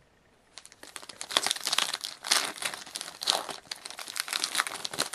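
Hockey card pack wrapper crinkling and being torn open, a dense run of crackling that starts about half a second in.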